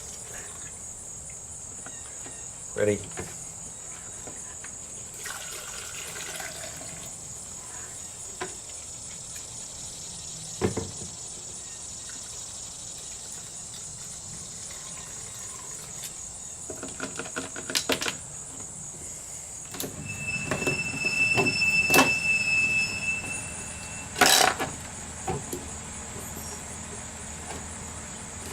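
Crickets chirring steadily and high-pitched throughout, under scattered knocks and rustling from handling fuel containers. In the second half a few seconds of louder rustling bring a brief high squeal.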